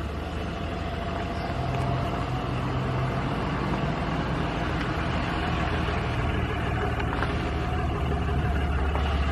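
A car engine running steadily at idle, a deep even hum with background noise.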